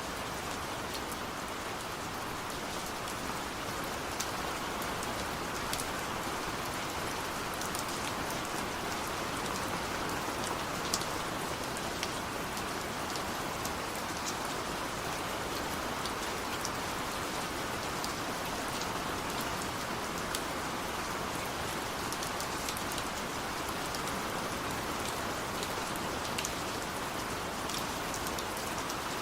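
Heavy rain falling steadily, an even hiss with scattered sharp drop ticks on top.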